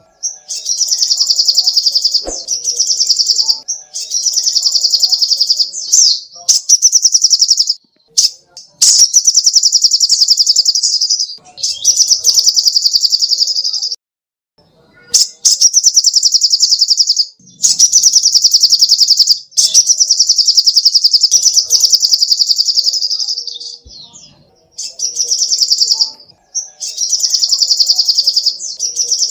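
Sogok ontong songbird singing: long, very high, rapid trills, each a second or two long, repeated over and over with short breaks and one longer pause about halfway.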